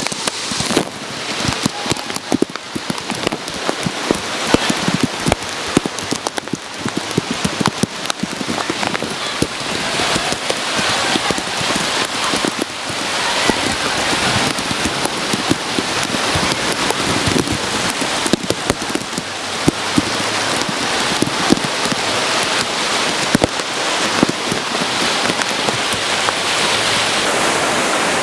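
Heavy rain falling, with many separate drops striking close by over a steady hiss; it grows louder and more even toward the end.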